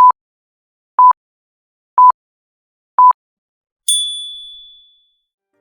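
Quiz countdown timer: four short electronic beeps, one a second, then a bell-like ding that fades over about a second, marking the end of the answer time.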